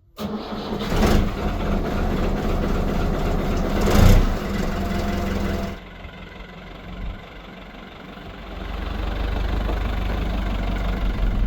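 Tractor diesel engine running steadily, with two brief louder surges about one and four seconds in. The sound drops away abruptly near six seconds and builds back up to a loud, low engine drone around nine seconds.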